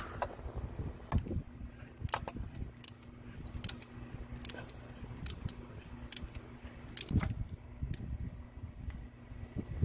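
Metal hand tools and small parts clinking and knocking, scattered irregular clicks over a low steady hum.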